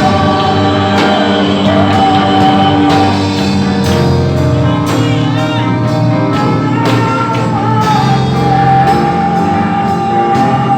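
Live gospel praise music: a band with drums plays on while a voice holds long sung notes.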